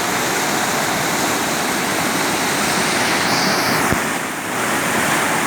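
Storm rainwater rushing and flowing steadily, a loud, even wash of water noise.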